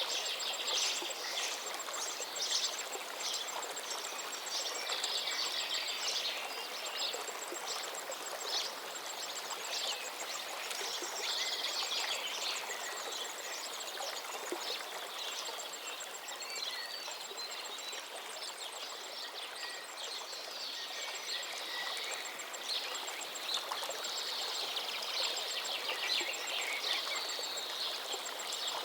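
A river flowing steadily over rocks, with many songbirds chirping and trilling over it, plus a fast, regular high ticking call running through most of it.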